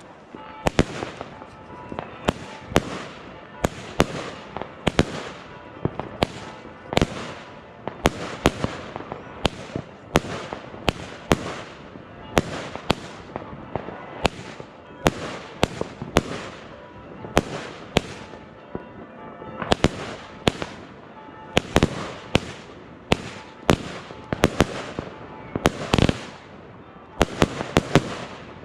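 A consumer firework battery (cake) firing shot after shot, about one to two a second, with sharp bangs and crackle between the shots.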